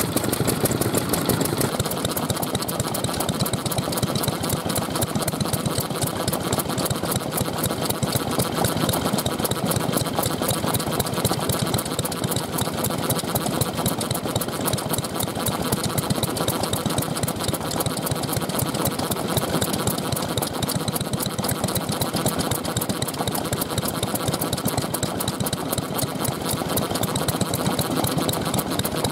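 Vintage stationary engine running steadily, a fast even beat of firing strokes.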